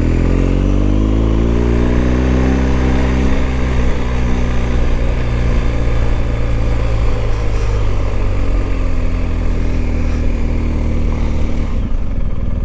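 Motorcycle engine pulling under way on a BMW adventure bike. Its revs climb over the first three seconds, then hold fairly steady over a rushing noise, and ease off near the end.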